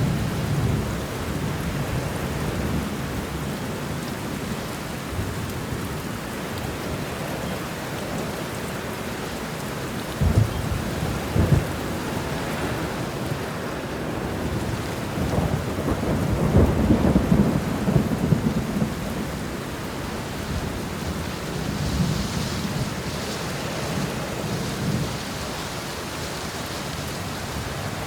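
Steady heavy rain with rolls of thunder: a low rumble at the start, two sharp cracks about ten seconds in, then a longer rumble that builds and fades in the middle and a smaller one later.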